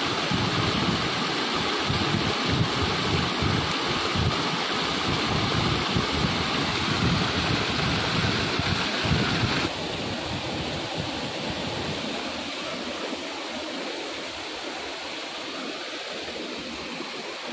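Waterfall rushing steadily, with wind buffeting the microphone in the first half. About ten seconds in the sound changes abruptly to a quieter, thinner wash of water.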